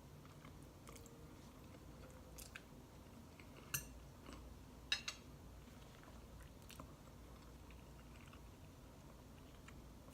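Faint close-up chewing of spaghetti, with a few sharp clicks; the loudest come about four and five seconds in.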